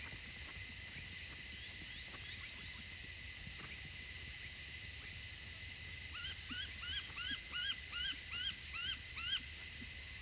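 A bird calling a run of about eleven short rising notes, roughly three a second, starting about six seconds in, over a steady thin high tone.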